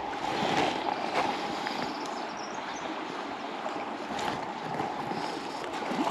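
River water running steadily, with a few short clicks over it.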